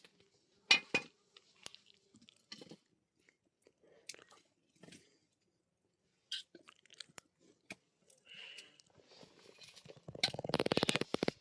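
Scattered short crunches and clicks with quiet gaps between them, then a dense run of rapid crunching near the end.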